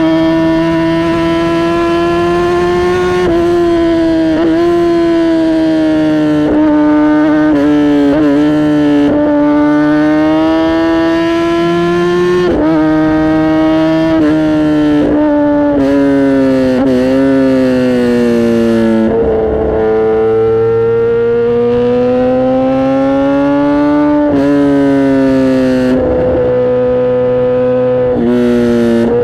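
Kawasaki ZX-10R inline-four exhaust on a ride, revving hard, the pitch climbing under throttle and dropping sharply at each gear change or throttle lift, many times over.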